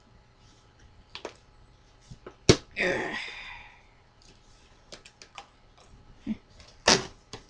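Handling of a cardboard shipping box and its contents: a sharp click about two and a half seconds in, then a second-long rustle, a few light ticks, and a knock near the end.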